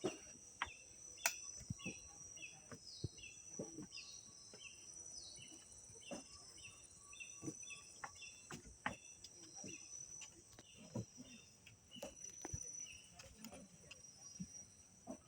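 Outdoor wildlife ambience: a steady high-pitched insect drone with rows of short, repeated bird chirps over it, and scattered light knocks or clicks.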